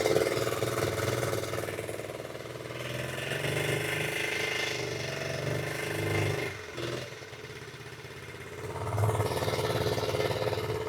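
A 1972 Honda Z50 Mini Trail's small single-cylinder four-stroke engine running on a little choke just after a cold start. Its speed wanders up and down, sagging about six and a half seconds in and picking up again near nine seconds.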